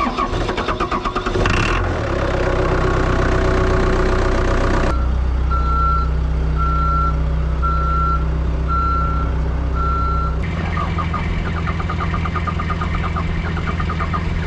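Diesel skid steer engine cranking and catching about two seconds in after a shot of ether, then running steadily. A beep repeats about once a second for some five seconds in the middle. It is hard starting, which the owner thinks may be a bad injector.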